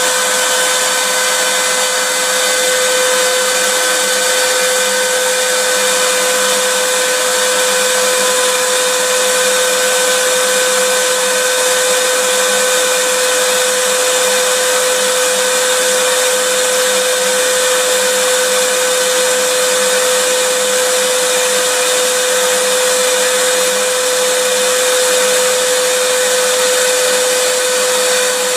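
Vacuum cleaner running steadily: an even rush of air with a constant motor whine that never changes.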